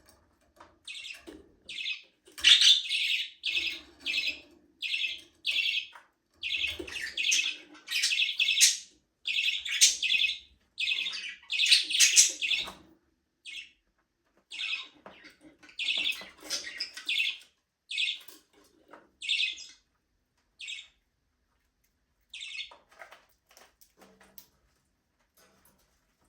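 Budgerigars chirping in quick short calls, packed closely together for the first half and thinning out to a few scattered chirps near the end.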